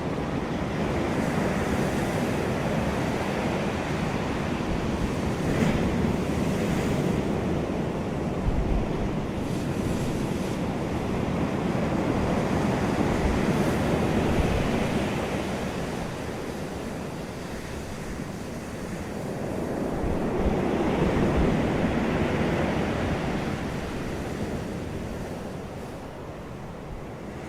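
Wind blowing over the microphone as a continuous rushing noise that swells and eases every several seconds.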